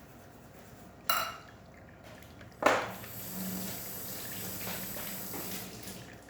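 La Pavoni lever espresso machine pulling a test shot. A short hiss comes about a second in. Near the end of the third second a sudden gush starts, and liquid streams and hisses for about three seconds before tailing off.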